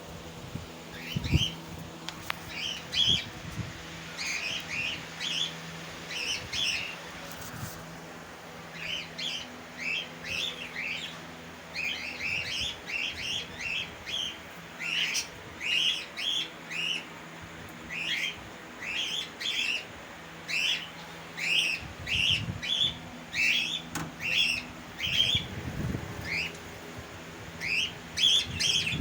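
A flock of budgerigars chirping: many short chirps in quick runs, with a few brief lulls, over a faint steady hum.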